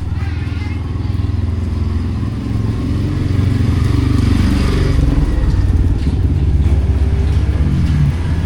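A motor vehicle's engine running close by, its pitch shifting as it grows louder from a few seconds in and stays loud, over a steady hiss of heavy rain.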